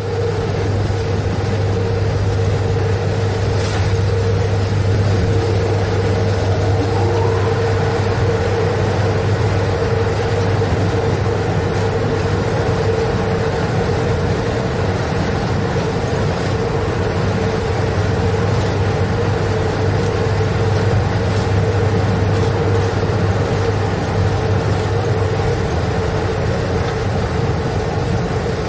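Train running along the track: a steady low rumble with a constant mid-pitched hum over it, and a faint rising tone about seven seconds in.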